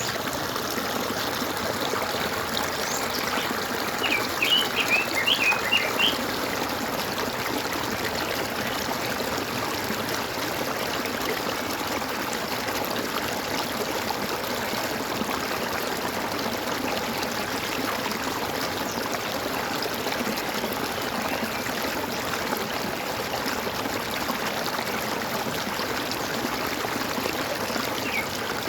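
Water gurgling steadily in a stream, with a bird giving a quick run of short, high chirps about four to six seconds in and one more faint call near the end.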